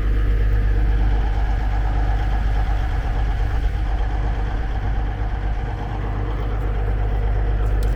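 Cat Challenger track tractor's diesel engine running steadily while the tractor sits bogged down in wet ground.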